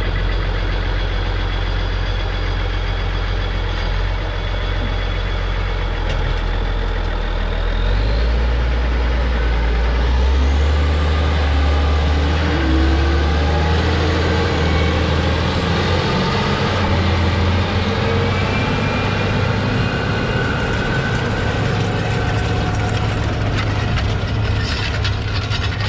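Case IH Steiger 9370 tractor's turbocharged six-cylinder Cummins N14 diesel engine running under load. Its note steps up about eight to ten seconds in, and a thin high whine climbs slowly above it.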